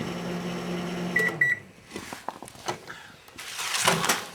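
Microwave oven humming down after being stopped, with short electronic beeps twice about a second in; then scattered clicks and rustling handling noises.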